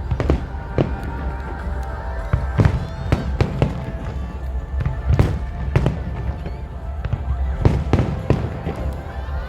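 Fireworks going off, a rapid, irregular series of sharp bangs, more than a dozen in a few seconds, with music playing underneath.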